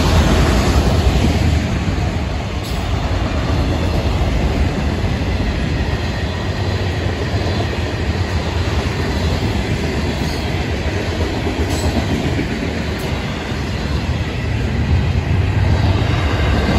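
Freight train cars (autoracks, tank cars and double-stack container flats) rolling past at close range: a steady, loud rumble of wheels on rail, with a few sharp clanks.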